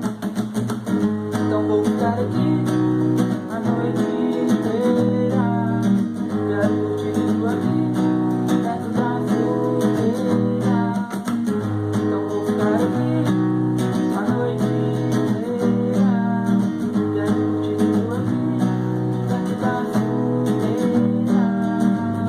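Acoustic guitar music: strummed chords with a melody moving above them, at a steady level.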